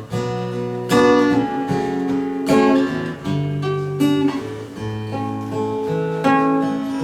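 Acoustic guitar strumming chords, a new chord struck every half second to second: the instrumental introduction before the singing comes in.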